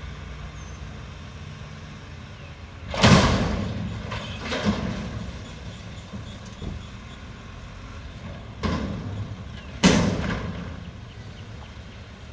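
Mack McNeilus front-loader garbage truck's engine running steadily, broken by four loud bangs that ring out and fade. The loudest come about three seconds in and about ten seconds in, with smaller ones in between.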